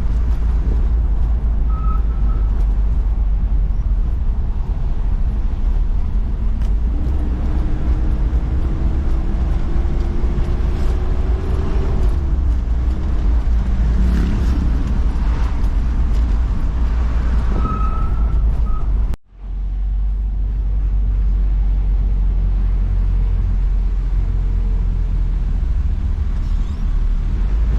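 Heavy, steady rumble of a vehicle on the move, engine and road noise, with an engine note that rises slowly between about a quarter and halfway through. The sound cuts out for an instant about two-thirds of the way in, then the rumble carries on.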